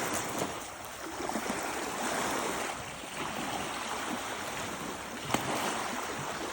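Lake waves washing onto the shore after a storm: a steady rush of water that swells and eases in surges every second or two, with one sharp click about five seconds in.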